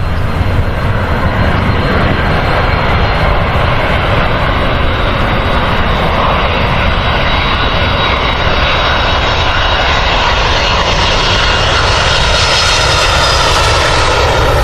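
Jet airliner engines making a loud, steady roar, growing brighter and hissier toward the end.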